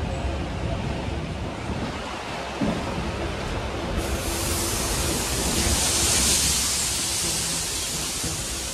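Train coach rumbling as it runs slowly along the platform, with a sudden loud hiss starting about halfway through and lasting several seconds.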